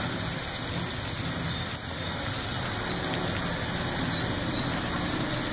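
Beef and spices sizzling steadily as they fry in an aluminium pot on the stove.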